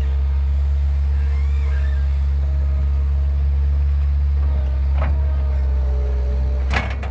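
A steady, loud low engine drone, like an idling motor vehicle, with a sharp knock near the end.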